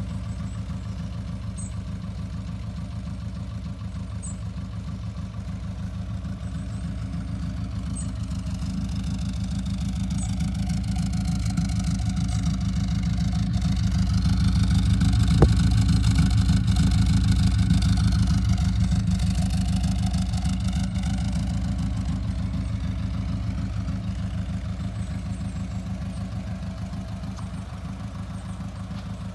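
1974 Lotus Elan Sprint's twin-cam four-cylinder engine idling at a steady speed. It grows louder toward the middle and then fades again, with a brief click about halfway through.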